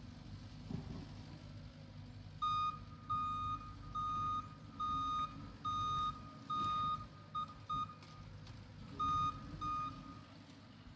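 Machine's reversing alarm beeping about once a second over a low diesel engine rumble, as the power-raking machine backs up. There are about ten beeps, with a short break near the end.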